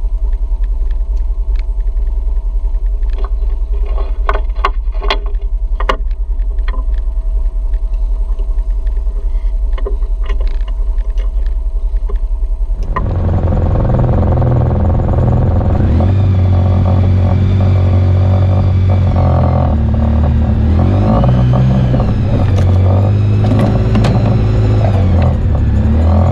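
Off-road vehicle on a dirt trail: a low rumble with scattered knocks and rattles. About halfway through, the engine comes up loud, its pitch rising and falling as the throttle is worked.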